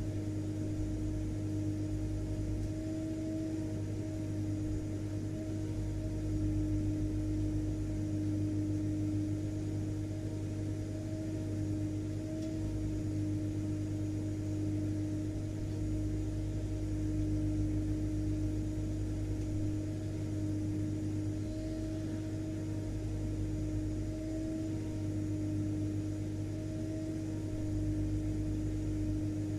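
Vacuum cleaner motor running steadily: an unchanging drone with a constant mid-pitched hum over a low rumble.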